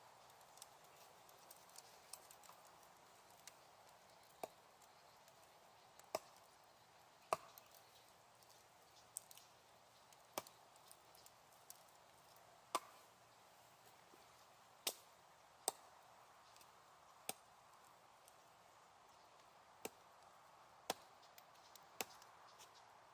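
Wood fire crackling: sharp pops and snaps at irregular intervals, a few seconds apart, over a faint steady hiss of the burning wood.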